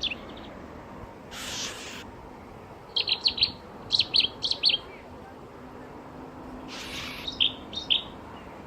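A small bird chirping: short, high notes in quick runs of four or five, with a few more near the end. Two brief bursts of hiss come about one and a half and seven seconds in.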